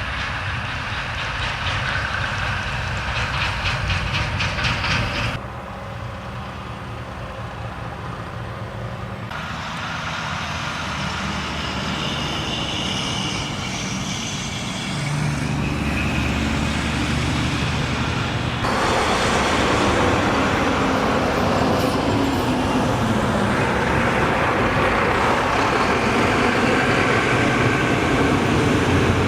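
Heavy trucks, garbage trucks and semi trucks, driving past on a road: diesel engines running over tyre and road noise, with a clattering rattle from a truck body in the first few seconds. The sound changes abruptly several times, as one pass gives way to another.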